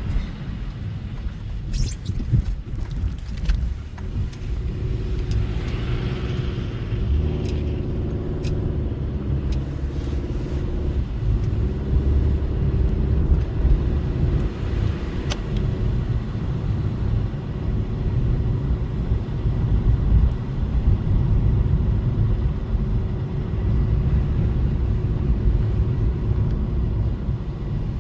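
Car driving on a snowy road: a steady low rumble of engine and tyres, with a faint even hum joining about seven seconds in.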